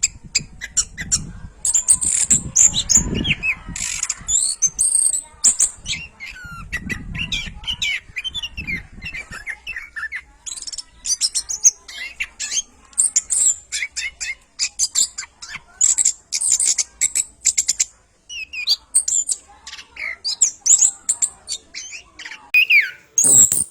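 Orange-headed thrush singing a fast, varied song of short high whistles, chirps and trills, broken by brief pauses, over a low rumble in the first half.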